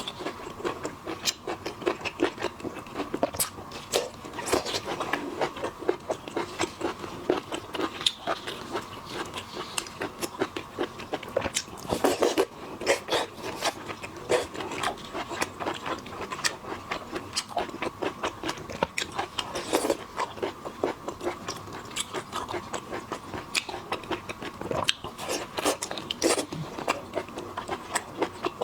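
Close-miked eating of seafood: continuous wet chewing with many sharp clicks and crunches, louder bites now and then.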